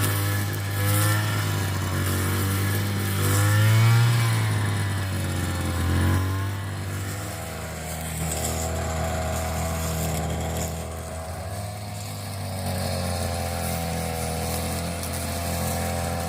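A small engine running steadily with a low hum, its pitch wavering a little.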